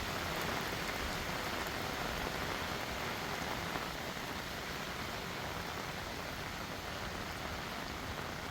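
Heavy rain falling steadily with an even hiss, easing slightly about four seconds in.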